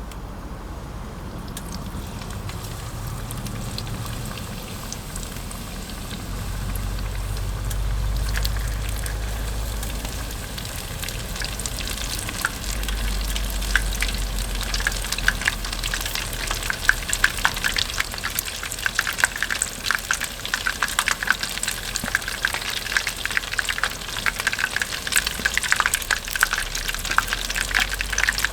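Food frying in hot oil, sizzling with dense crackles that thicken and grow louder from about halfway through, over a low rumble.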